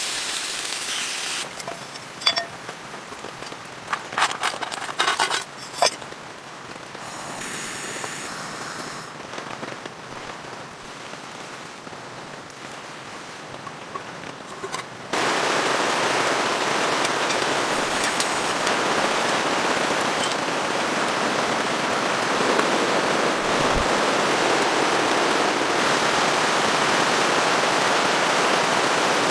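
Rain, quieter at first with scattered sharp clicks and pops, then about halfway through jumping suddenly to a loud, steady rain hiss.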